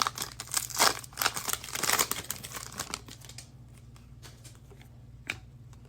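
Plastic trading-card pack wrapper crinkling and tearing as a pack is opened and handled, dense for about three seconds. After that it dies down to a few faint ticks.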